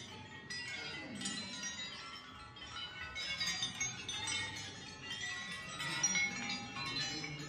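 Many metal hammers and steel parts clinking and ringing against each other in an irregular, overlapping jangle, like wind chimes, as they are set swinging.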